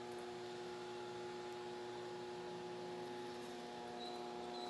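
Power station's electrical hum: a steady, low-level buzz of several constant tones, the mains hum of transformers. A few short high chirps come in near the end.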